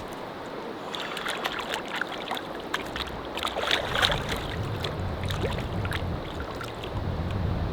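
Small waves lapping and splashing against a canoe in a strong wind, with wind buffeting the microphone from about halfway in.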